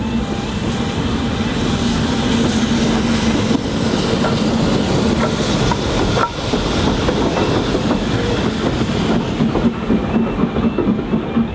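A heritage railway train passing close by, its wheels clattering over the rail joints, the beat getting more pronounced near the end.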